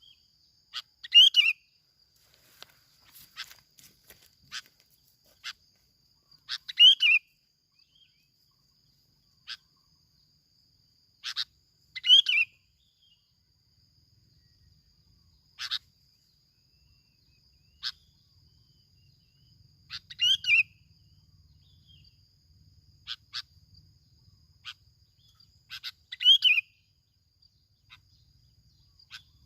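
A bulbul ('bông lau', yellow-vented) calling: a short bubbly phrase repeated about every five to six seconds, with sharp single chips in between, over a faint steady high hiss.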